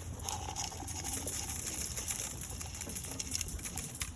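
Domestic pigeons cooing.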